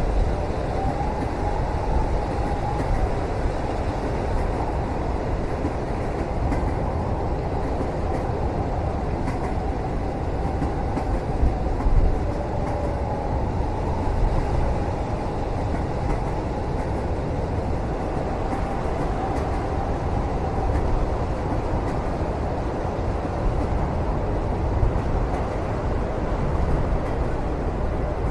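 Passenger train running, heard from inside the cabin: a steady low rumble with faint wavering whines above it and occasional light clicks.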